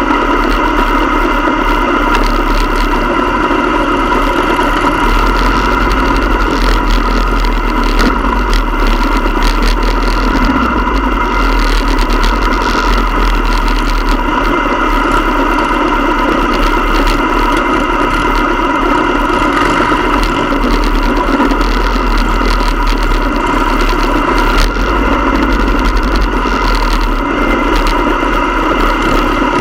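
Motorcycle engine running steadily, a constant loud drone that holds the same pitch throughout.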